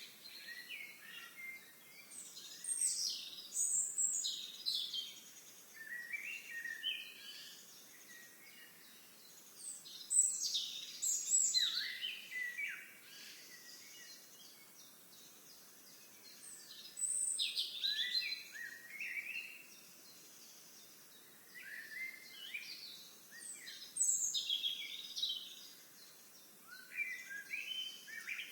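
Songbirds singing: bursts of quick chirps and short falling whistles, repeated every several seconds, over a faint steady outdoor hiss.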